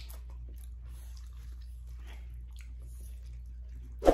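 Close-miked eating sounds: faint chewing and small wet mouth clicks over a steady low hum, with one brief louder sound right at the end.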